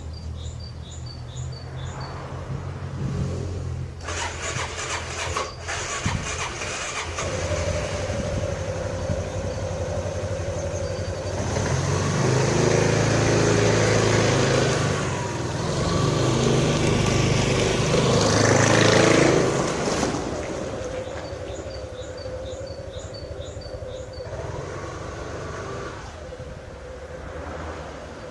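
Motorcycle engine running on a test start after washing. It idles, is revved up twice in the middle, and settles back to idle.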